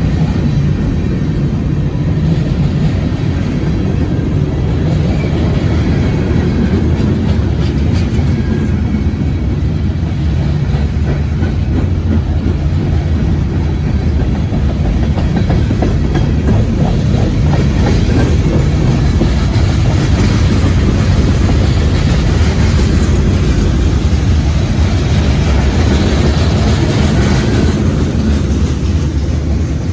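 Freight cars of a CSX train rolling past at track side: a steady, loud rumble of steel wheels on rail, with rapid clicking as the wheels pass over rail joints.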